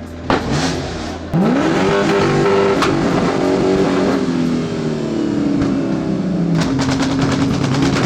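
Car engine revving: a few short blips, then about a second in a loud rev whose pitch climbs and slowly falls back. Near the end it settles into a steady run with rapid crackling.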